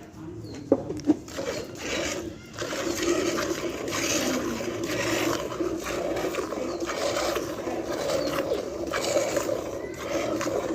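Milk squirting in quick repeated streams into a metal pail as a cow is milked by hand, with a ringing hiss from the pail.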